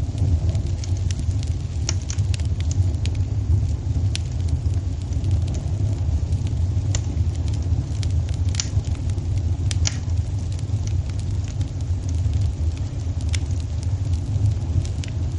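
Fireplace fire burning with a steady low rumble and scattered sharp crackles and pops at irregular intervals.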